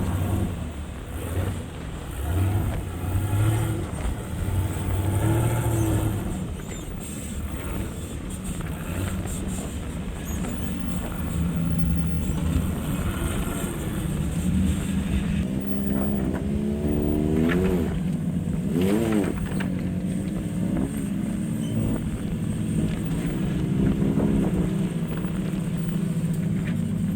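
Off-road side-by-side (UTV) engine running under load while rock crawling, revved up and down in short bursts several times about two-thirds of the way through.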